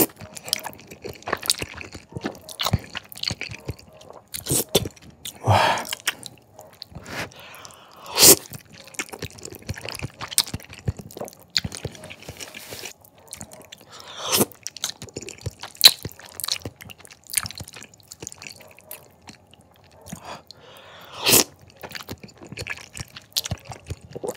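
Close-miked chewing and slurping of thick jajangmyeon noodles in black bean sauce: irregular wet mouth clicks and crackles, with a few louder sharp sounds standing out.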